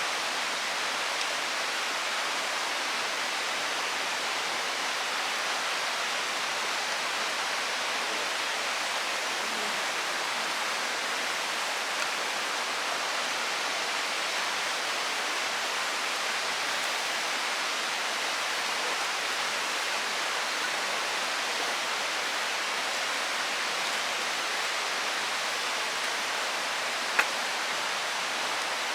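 Mountain stream water rushing steadily. A single sharp click near the end.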